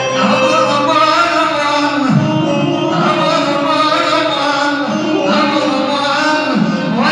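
Male singer performing an Arabic mawwal over instrumental accompaniment, in long, drawn-out melismatic phrases with short breaks between them.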